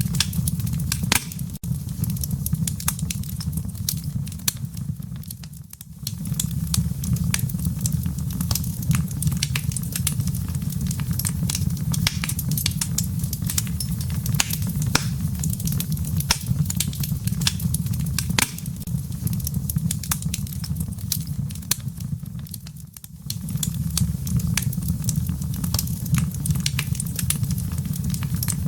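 Wood fire in a fireplace crackling, with many sharp pops and snaps over a steady low rumble of flames. The sound dips briefly twice, about six seconds in and again near the end.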